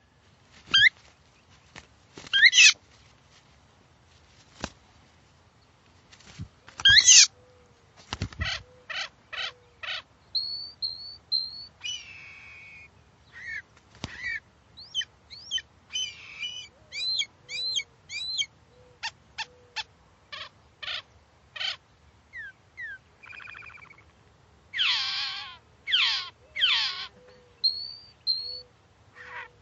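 Phainopepla calling: a long series of short, separate whistled and chirping notes, some sliding down in pitch, with a few sharp clicks among them.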